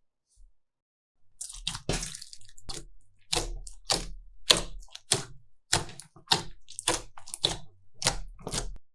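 Slime being squished and pressed by hand: a run of wet, sticky squelches and pops, roughly two a second, starting about a second in.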